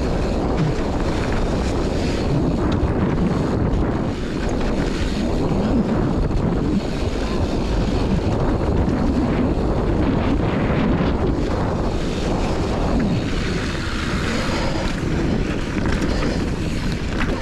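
Wind buffeting the microphone of a camera riding on a downhill mountain bike at speed: a steady, loud rush heavy in the low end.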